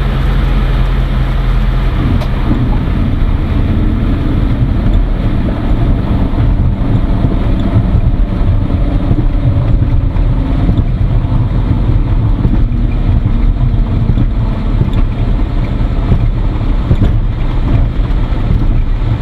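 Cirrus SR20's single piston engine and propeller running steadily, heard from inside the cockpit.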